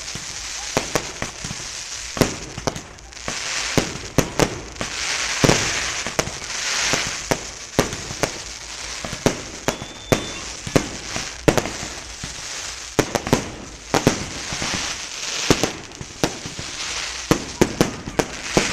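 Fireworks display: a quick, irregular run of sharp bangs from bursting shells, several a second at times, over a continuous crackle and hiss.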